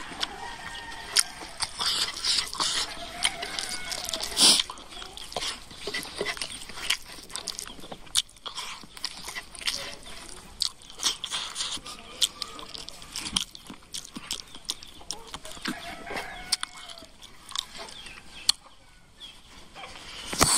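Close-up eating sounds: wet chewing and irregular lip smacks as a man eats rice and pork curry by hand, with fingers scraping food across a metal plate.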